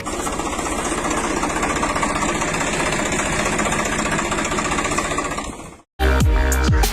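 An engine running steadily with a rapid, even clatter, which cuts off abruptly near the end; electronic music with deep falling bass notes starts right after.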